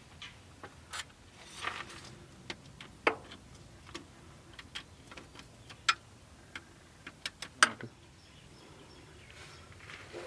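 Irregular light clicks and knocks of metal engine parts and tools being handled and set in place during engine assembly, the sharpest knock about three quarters of the way through.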